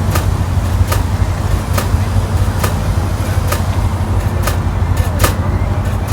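Railway train running: a steady low rumble with a sharp click a little under once a second, sometimes two close together, like wheels passing over rail joints.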